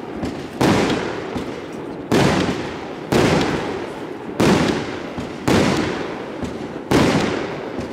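Funke Scala 25B firework battery firing shot after shot: six sudden bangs about a second or so apart, each trailing off over about a second as the shells burst into coloured stars.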